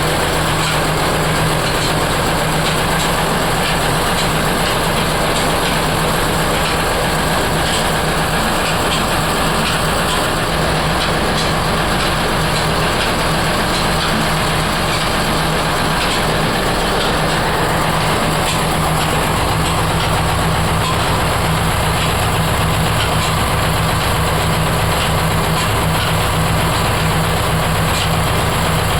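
Heavy workshop machinery running steadily: a constant low hum with a dense mechanical clatter over it.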